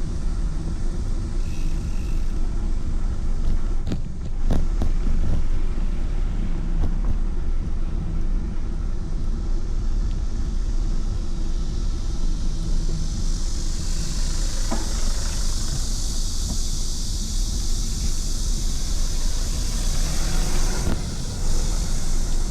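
Wind rumbling on the microphone while riding, with a steady low roar throughout. A few brief knocks come early on and in the middle. A steady high hiss sets in about halfway through and drops away shortly before the end.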